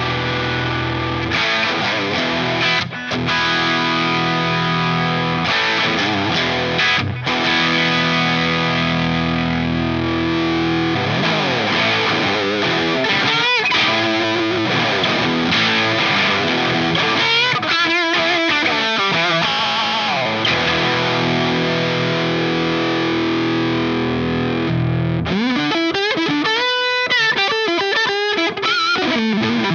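Electric guitar played through a DOD Looking Glass Class A FET overdrive pedal, giving an overdriven tone. Held, ringing chords alternate with single-note lead lines that bend and waver with vibrato, about a third of the way in and again near the end.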